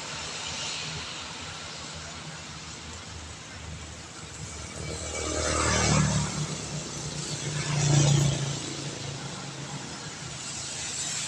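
Two vehicles drive past on a wet road, one after the other, each rising to a peak and fading, with engine hum and tyres hissing on the wet asphalt, over a steady hiss of rain.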